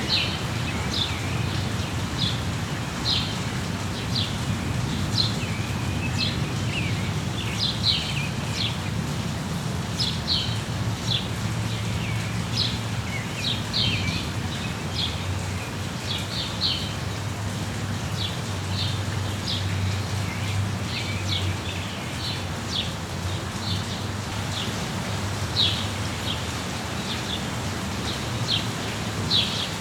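Songbirds chirping in quick, repeated high notes over steady rain, with a low rumble beneath.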